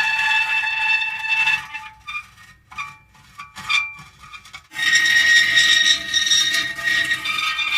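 Metal creaking and squealing in drawn-out, high-pitched tones. It breaks off for about three seconds into a few short creaks, then swells back in.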